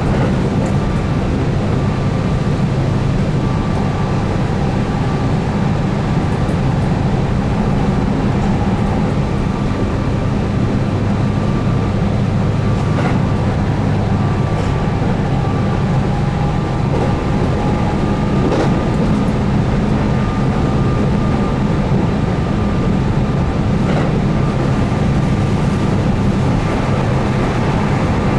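Keihan 8000-series electric train running at speed, heard from inside the car: a steady low rumble of wheels on rail with a steady whine from its DC traction motors, and a few faint clicks.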